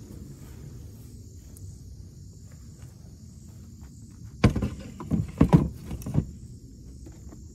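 Insects trilling steadily over a low rumble, broken about halfway through by a cluster of five or six loud knocks and clatters in under two seconds, like camping gear being handled.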